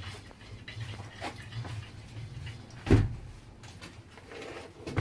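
Scattered light knocks and clatter, with one heavy thump about three seconds in, over a faint low hum.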